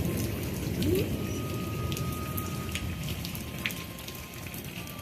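Heavy thunderstorm rain falling, with many sharp raindrop ticks close by over a dense low rumble.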